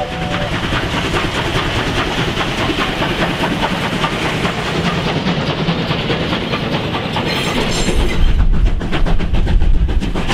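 Steam-hauled train of passenger coaches and a tank wagon rolling past, the wheels clicking over the rail joints in a fast, even rhythm. The last of the steam whistle cuts off about half a second in, and a deep rumble swells up about eight seconds in.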